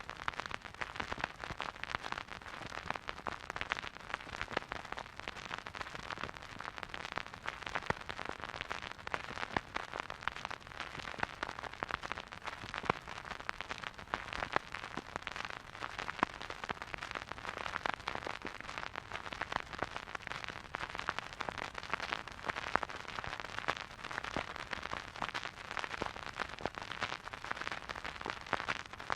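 Surface noise of a vinyl record played in a silent groove: dense, steady crackle and pops over a soft hiss, with no music.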